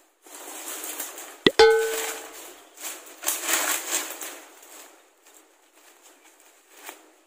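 A single sharp metallic clang about a second and a half in, ringing briefly at a few pitches, over a hissing noise that swells and then fades away.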